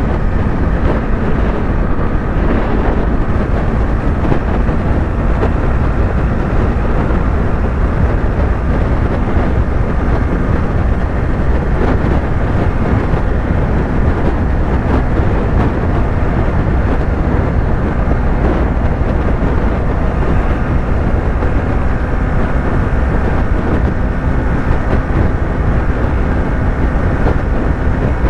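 Yamaha YZF-R3's parallel-twin engine running at a steady highway cruise, its note held even under a heavy rush of wind and road noise.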